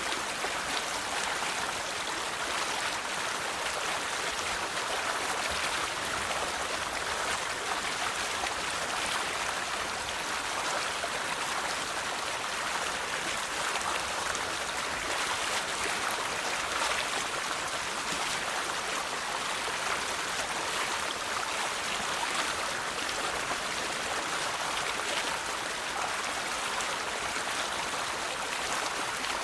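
River water flowing over rocks, a steady rushing babble.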